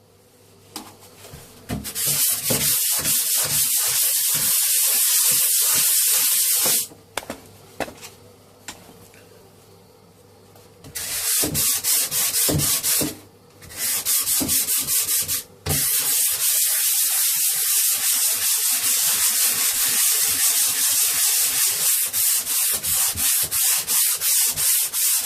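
120-grit sandpaper rubbed over a plaster join in quick back-and-forth strokes, a steady rasping hiss. It stops about seven seconds in and starts again about four seconds later, with two brief pauses soon after.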